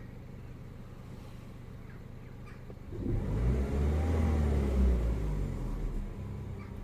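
Peugeot RCZ's 1.6 THP turbocharged four-cylinder petrol engine idling steadily, then given a single throttle blip about three seconds in: the revs rise, peak and fall back to idle within about three seconds. The engine is still warming up from a cold start, when the owner's intermittent rough idle and idle dips show.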